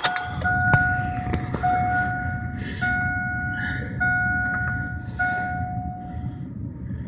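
The truck's in-cab warning chime repeating about once a second, an even electronic tone, over a low rumble.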